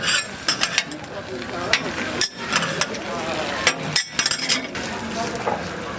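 Metal spatulas clicking and scraping irregularly against a hot griddle while food sizzles, with crowd chatter behind.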